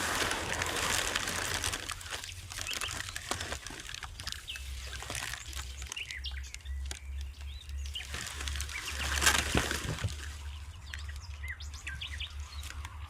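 Small birds chirping in short calls, with bursts of rustling and scattered clicks, about a second in and again near the ninth second.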